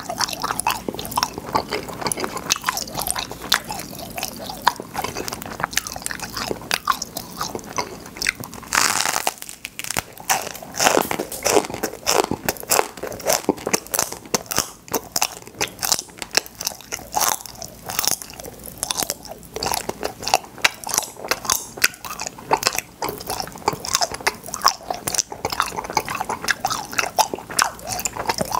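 Close-miked chewing and crunching of popping-candy cotton candy, with many small sharp crackles running through the chewing.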